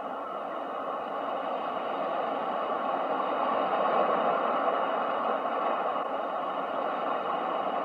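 Ocean surf as a steady rushing noise, swelling gradually to a peak about halfway through and then easing off a little.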